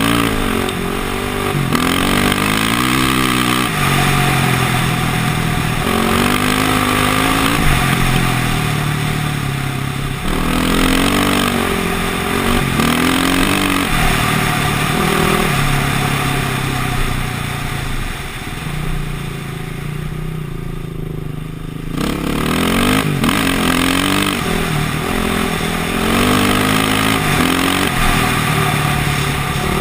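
KTM motocross bike engine revving up and down again and again as the throttle is opened and closed, with a quieter stretch of low, steady running about two-thirds of the way through.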